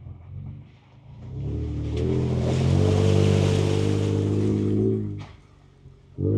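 Ford Ranger Raptor's twin-turbo V6 heard from inside the cab: it builds to a steady pull for about three seconds with a hiss over the top, lets off, then picks up again sharply near the end as the truck works up a rough trail.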